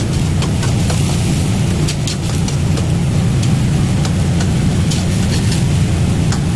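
Chicken chunks frying in hot oil: scattered sharp crackles and pops over a steady low rumble.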